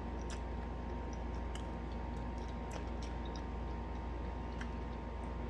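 Quiet eating at the table: scattered small clicks and chewing sounds over a steady low hum.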